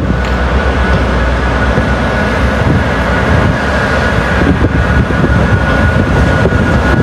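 A train moving through the station platforms, loud and steady, with a thin high tone held throughout.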